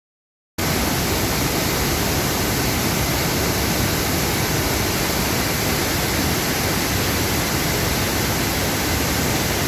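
Steady rush of water falling at a waterfall, cutting in about half a second in after a moment of silence.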